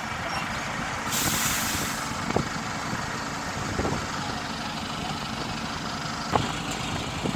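Heavy truck engines running steadily, with a sudden one-second hiss of air, typical of an air-brake release, about a second in.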